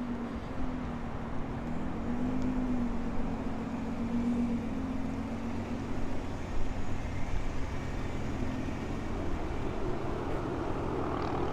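Steady rumble of motor vehicles: car engines running and road traffic, with a low humming tone that wavers slightly in pitch.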